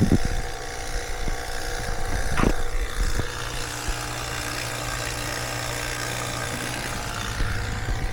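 Refrigeration vacuum pump running steadily, pulling a deep vacuum on a heat pump's refrigerant circuit, already down to about 360 microns. A brief knock sounds about two and a half seconds in.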